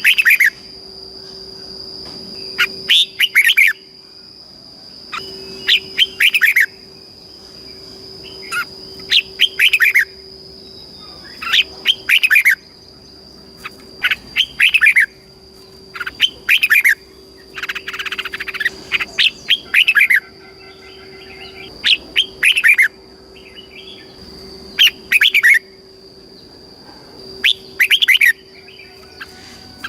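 Red-whiskered bulbul singing short, quick phrases of sweeping whistled notes, about one every two to three seconds.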